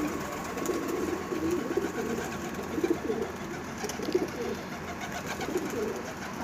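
Domestic pigeons cooing, a run of low coos one after another with several birds overlapping.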